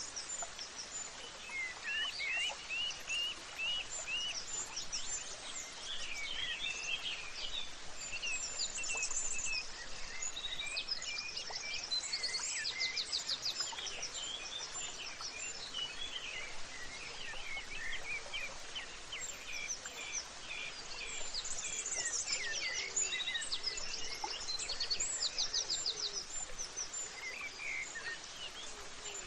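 Many small birds chirping and singing at once, a busy chorus of quick chirps and trills, over a steady background hiss.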